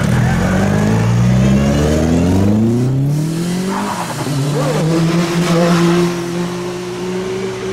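Car engine accelerating away, its note rising steadily for about four seconds, then dropping suddenly and holding a steady pitch.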